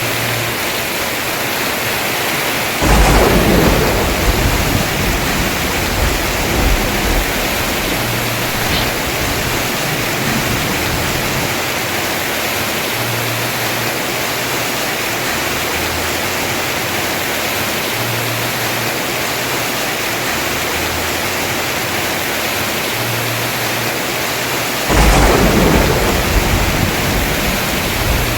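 Heavy rain falling steadily on a house roof, with two claps of thunder rumbling: one about three seconds in, the other near the end, each dying away over a few seconds.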